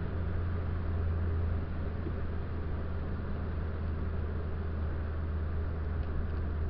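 Toyota Corolla's 4A-GE 16-valve four-cylinder, fitted with an RSR stainless steel header and 2.25-inch exhaust, heard from inside the cabin while driving. It holds a steady low drone at constant revs, with road noise underneath.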